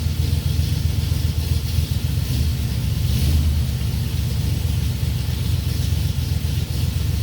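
An engine running steadily at an even speed, mostly low-pitched, warming up after a cold start following winter storage.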